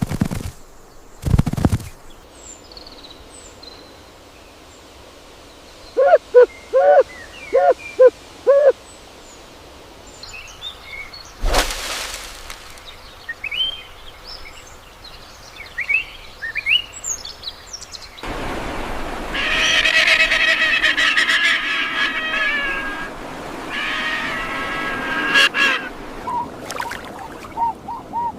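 A sequence of animal and bird calls: a few thumps, scattered high chirps, a quick run of about six calls in a row, and louder honking calls over a noisy background in the second half.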